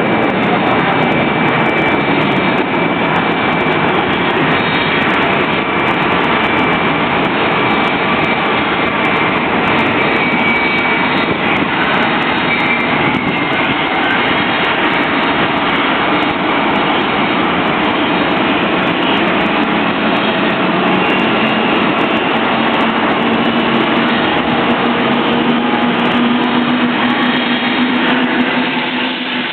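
Boeing 777-200 jet engine running during engine start: a loud, steady rush of engine noise with a low hum that grows stronger over the last few seconds.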